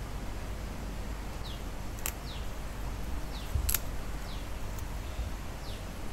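Short falling chirps about once a second, like a small bird, over a steady low hum. Two sharp light clicks sound about two seconds in and again a little later, the second with a soft thump, as garnish is set on a plate.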